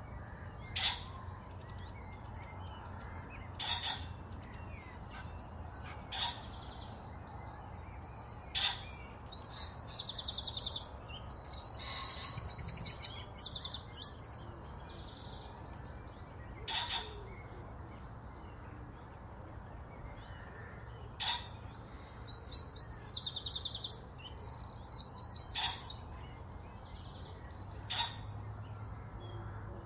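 Songbirds: short sharp call notes repeat every two to three seconds, and twice a bout of rapid, high trilled song runs for a few seconds.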